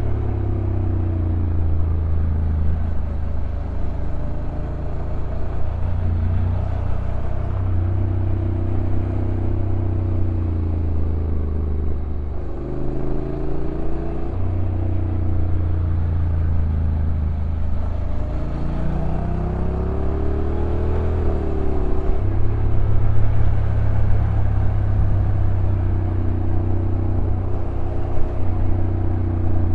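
Honda NC750X's parallel-twin engine running under way on the road, with its pitch repeatedly stepping and gliding up and down as the DCT gearbox changes gear.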